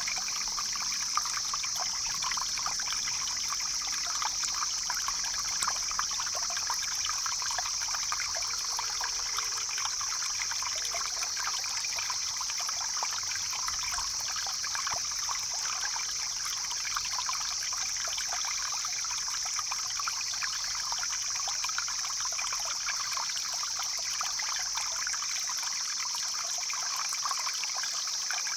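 Stream flowing steadily, with water trickling and splashing and a constant high hiss over it.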